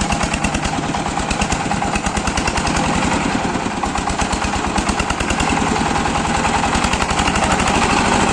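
Power tiller engine running with a rapid, regular chugging beat, getting a little louder in the second half.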